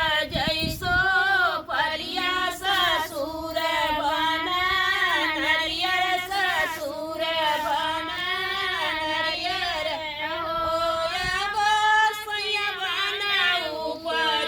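A woman singing a Chhath Puja devotional folk song in long, wavering melodic phrases.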